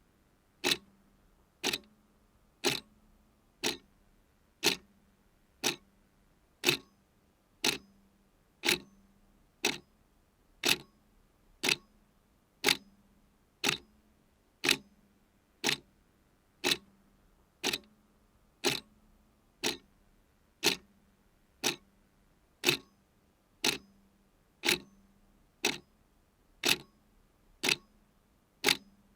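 A clock ticking steadily at about one tick a second, each tick a sharp, short click.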